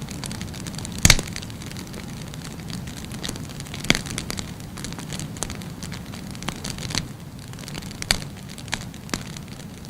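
Burning wood fire crackling over a steady low rumble, with scattered sharp pops; the loudest comes about a second in and others follow near the middle and end.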